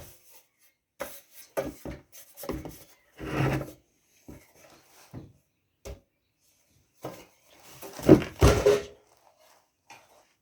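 Metal engine parts and hand tools being handled during reassembly: scattered light clicks and knocks with short scraping and rubbing sounds. The loudest is a scraping clatter about eight seconds in.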